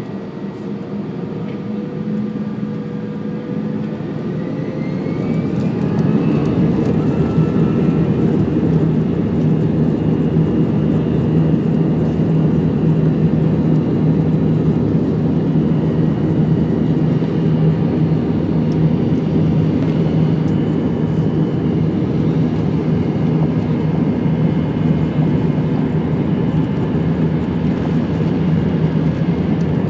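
Airbus A320's jet engines spooling up to takeoff power, a rising whine over the first six seconds as the level climbs, then a steady loud rumble with a low hum as the airliner accelerates down the runway.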